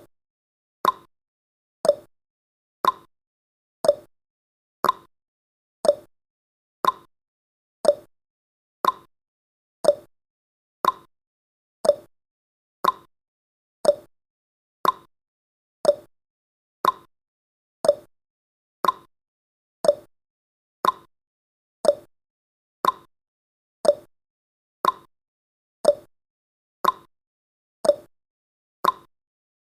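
Countdown timer's tick sound effect: a short, sharp tick once a second, evenly spaced and each dying away quickly.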